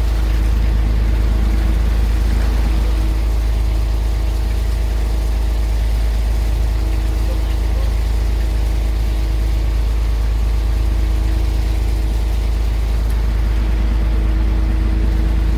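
Boat engine running steadily at idle, a deep constant rumble with a steady hum.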